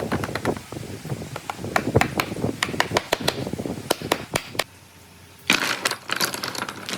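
Rapid, irregular knocks and clicks of scrap wood pieces being handled and clattering together, dying down about four and a half seconds in, then a brief scraping noise about a second later.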